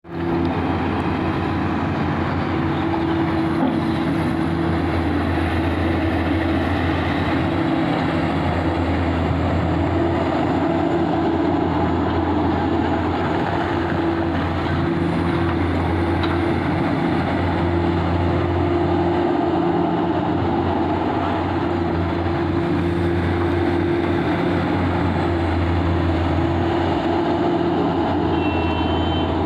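Komatsu 450 hydraulic excavator's diesel engine running steadily under work, a deep continuous drone with a steady higher tone riding above it.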